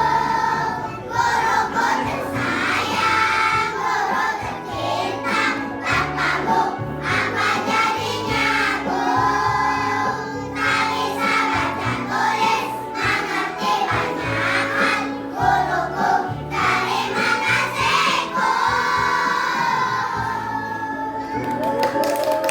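A children's choir singing together over an instrumental accompaniment with a bass line that steps from note to note.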